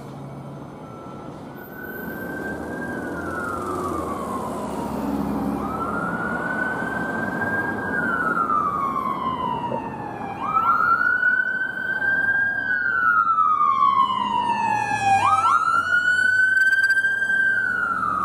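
Emergency vehicle siren on wail, each cycle rising quickly, holding, then falling slowly, about four cycles, growing louder as it approaches over traffic rumble.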